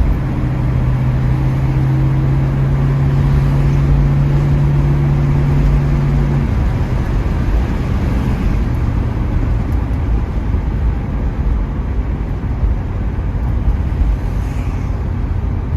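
1972 Ford Mustang Mach 1 on the move: a steady engine drone for the first six seconds or so, which then drops away, leaving a steady rumble of road and wind noise.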